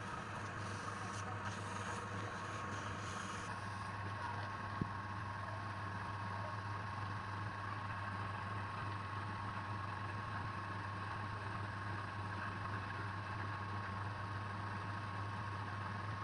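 Electric motor of a wood lathe running steadily: a low hum with a thin whine over it. One short click about five seconds in.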